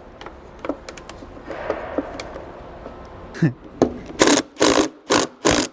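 Hand socket ratchet working a bolt loose in a tight spot. After a few scattered clicks, it ratchets in short back-and-forth strokes, about two bursts of clicking a second, in the second half.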